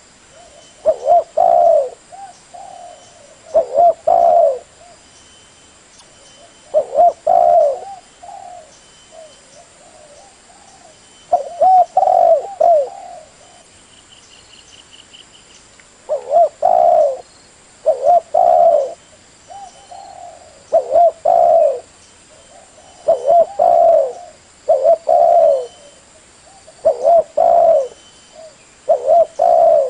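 Spotted dove cooing: phrases of low, rolling coos repeated every two to three seconds, with a longer gap near the middle.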